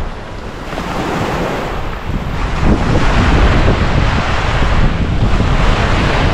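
Ocean waves washing onto the beach, with wind buffeting the microphone in a low rumble. The surf swells louder about two and a half seconds in and stays up.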